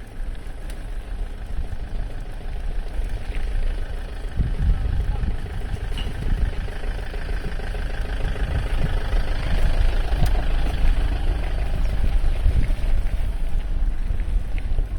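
Wind buffeting the microphone while riding, a steady heavy rumble, over a faint steady mechanical drone that swells slightly midway.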